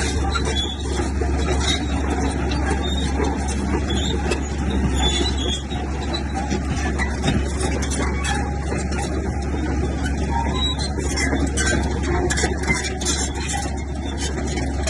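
Heavy diesel earthmoving machinery working: a steady engine with many short, sharp clanks and clicks over it.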